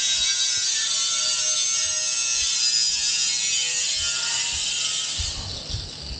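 A small handheld power tool running as it cuts, with a steady high-pitched whir, tapering off about five seconds in.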